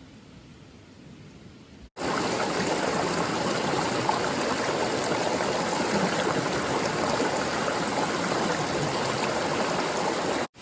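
Running water rushing steadily, cutting in abruptly about two seconds in after a faint hiss and stopping sharply near the end.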